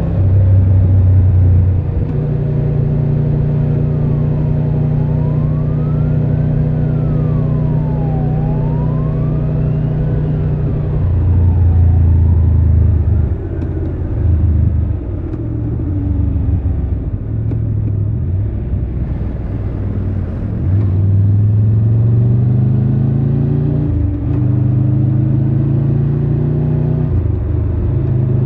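Triumph Tiger 1200 Rally Pro's three-cylinder engine heard from the rider's seat, holding a steady speed, then easing off and pulling away again with revs rising through several gears in the later part. For several seconds in the first half, a siren wails up and down in the background.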